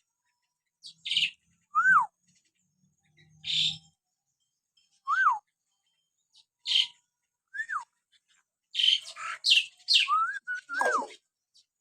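Hill myna calling: short clear whistles that rise then drop, every couple of seconds, alternating with harsh rasping calls, in a quicker run of both near the end.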